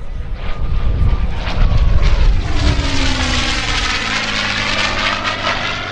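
P-51D Mustang's Packard Merlin V-12 engine in a fast low pass. It grows louder to a peak about two seconds in, then the engine note drops in pitch as the fighter goes past and away.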